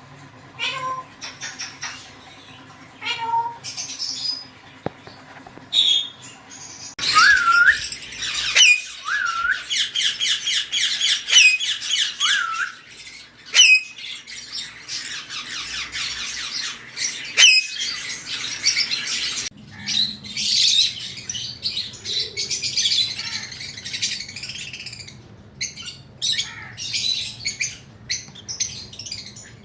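Caged parrots squawking and chirping. From about seven seconds in, a dense run of rapid repeated calls with short rising squeaks sets in, then breaks up into busy chatter and scattered calls.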